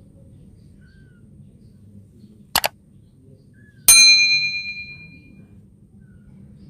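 Two quick clicks, then a single bright metallic ding that rings out and fades over about a second and a half. Faint high kitten mews are heard now and then.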